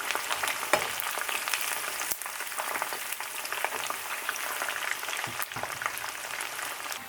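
Food deep-frying in hot oil: a steady crackling sizzle full of small pops.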